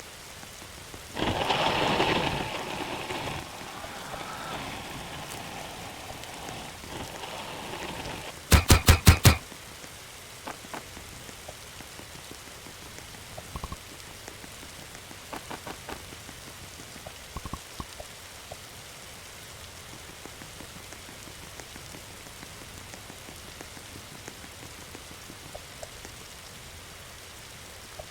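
Campfire crackling and hissing, with scattered pops. There is a louder rushing noise near the start, and a quick run of about six loud knocks around nine seconds in.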